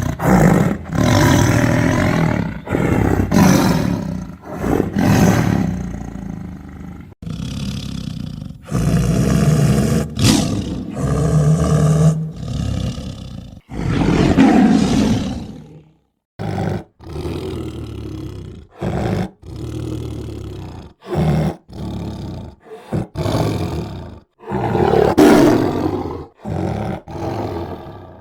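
Tiger roaring again and again. The first half holds long, loud roars that run into each other. After that come shorter roars with brief silent gaps between them.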